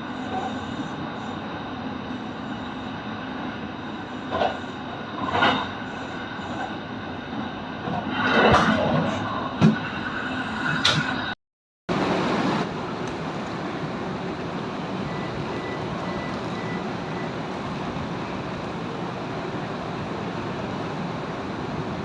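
Kintetsu electric train running: steady rail and motor noise with a few louder clanks and a brief squeal in the first half. About halfway through the sound cuts out abruptly and a steady, even rumbling noise follows.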